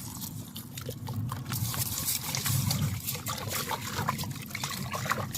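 Tomato-and-egg soup cooking in a pot, crackling and bubbling densely, over a low rumble of wind on the microphone.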